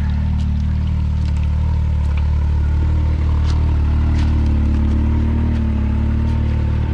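Side-by-side UTV engine running at low, fairly steady revs while crawling over rock ledges, with a slight rise in revs about midway. A few sharp clicks and knocks are mixed in.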